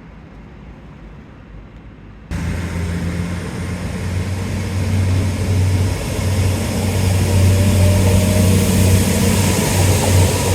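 A heavy engine running with a steady low hum over a wide rushing noise, starting suddenly about two seconds in and growing louder.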